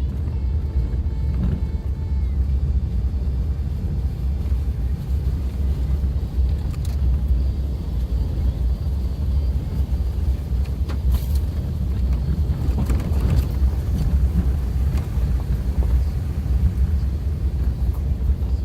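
Suzuki Jimny driving along an unpaved forest road: a steady low engine and road rumble with a few scattered knocks.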